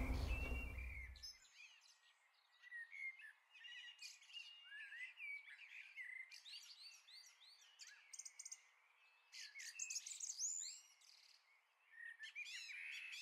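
Music fading out in the first second or so, then faint songbirds chirping: many short, quick rising and falling calls, busiest about ten seconds in and again near the end.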